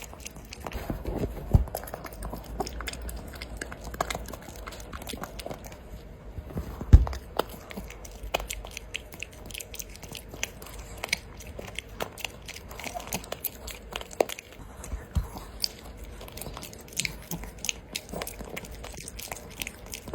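A Pomeranian chewing and crunching a dog chocolate treat: irregular crisp bites and clicks of teeth, with a couple of louder knocks about a second and a half and seven seconds in.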